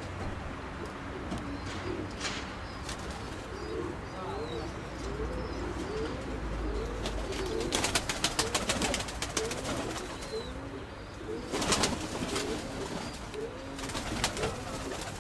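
Nikolaev high-flyer pigeons cooing continuously, many overlapping calls. Two bursts of rapid wing flapping come about eight and twelve seconds in.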